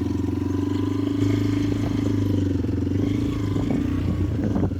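Motorcycle engine running steadily under throttle while riding, its pitch holding even. A few light clicks near the end.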